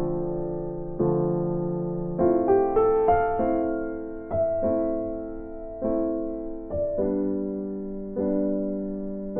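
Background music: slow piano chords, each struck and left to fade, with a short rising run of notes about two to three seconds in.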